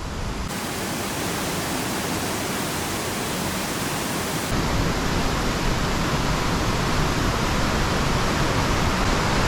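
Nungnung Waterfall, a high-volume gusher, rushing as a steady, even roar of falling water that grows a little louder toward the end.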